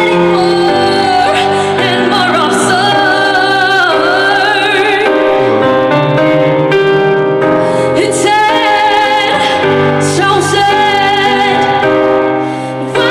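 A woman's solo voice singing a slow ballad with vibrato on long held notes, over piano accompaniment.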